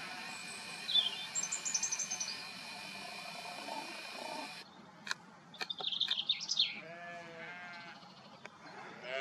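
Sheep bleating, one call about seven seconds in and another starting at the very end, with small birds chirping now and then and a steady hiss that cuts off suddenly about halfway through.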